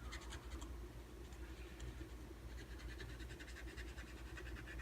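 Brush tip of a marker being dabbed and stroked over a rubber stamp: quick runs of faint, short scratchy strokes at the start and again from about halfway, over a steady low hum.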